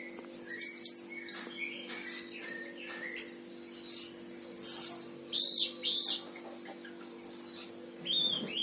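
Caged 'mantenan Himalaya' songbird singing a quick run of loud, high whistled phrases, several sweeping down in pitch, over a steady low electrical hum.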